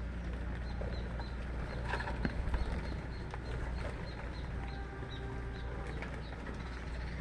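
Small birds chirping: a run of short, high cheeps at about three a second, over a steady background hiss.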